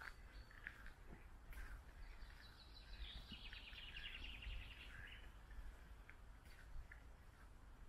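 Songbird singing faintly: a rapid, high trilling phrase in the middle, with scattered short chirps around it, over a steady low outdoor rumble.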